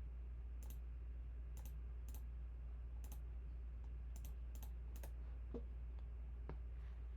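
About seven sharp computer mouse clicks at irregular intervals, over a steady low electrical hum.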